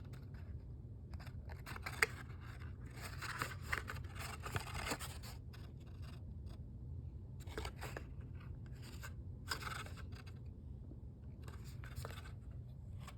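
Cardboard packaging and paper being handled: bouts of scraping and rustling, with a sharp click about two seconds in.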